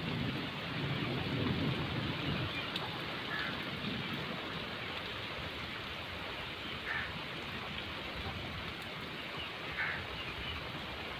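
Steady heavy rain falling on a road and fields, with a low rumble in the first couple of seconds and a few short, faint high notes over the rain.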